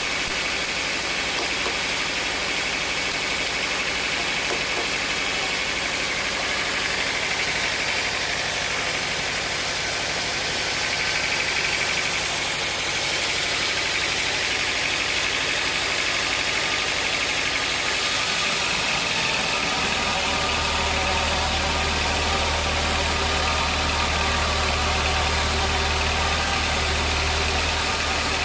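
Sawmill machinery running steadily, a mechanical noise with several steady tones, joined by a strong low hum about two-thirds of the way through.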